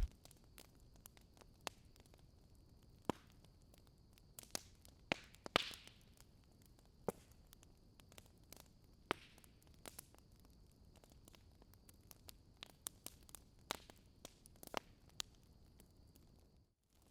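Wood fire in a fireplace crackling: irregular sharp pops and snaps, one with a brief hiss about five and a half seconds in, over a faint steady high hiss.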